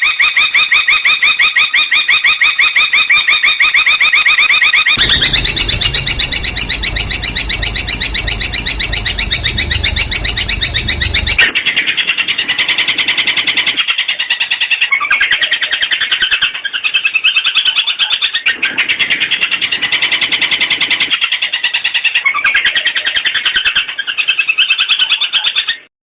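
Long-tailed shrike singing a fast, unbroken stream of repeated chattering notes that shifts to a new phrase every few seconds. A low rumble lies under the song for several seconds in the middle.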